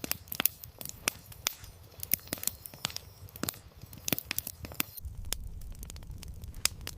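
Campfire crackling, with irregular sharp pops. A low rumble joins about five seconds in as the fire flares up.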